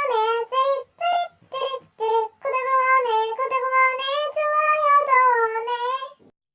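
A very high-pitched, sing-song voice in short phrases with brief pauses between them, stopping about six seconds in.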